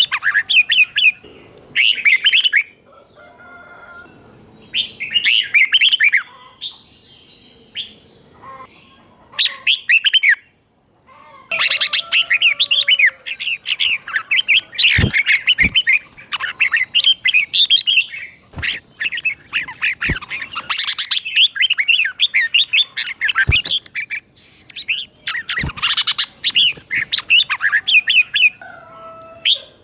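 Red-whiskered bulbul singing in bursts of quick, bright warbling phrases, the doubled 'เบิ้ล' song style kept by bird keepers as a tutor song for young bulbuls. After a few short phrases with pauses, the song runs on almost without a break through the middle. A few sharp clicks sound in among the song.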